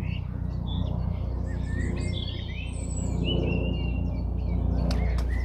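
Small songbirds chirping and singing, with short gliding whistles, over a steady low hum.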